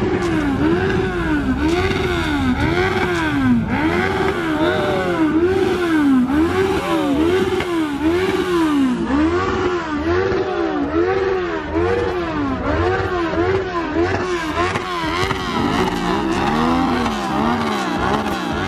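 Car engine being revved up and down over and over, about once a second, its pitch rising and falling each time.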